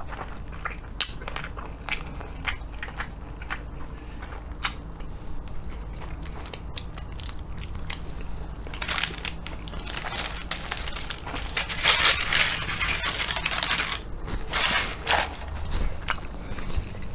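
Close-up chewing of a croissant chicken sandwich, with many small wet mouth clicks. From about nine seconds in, a paper food wrapper crinkles and is crumpled in several bursts, loudest a little past the middle.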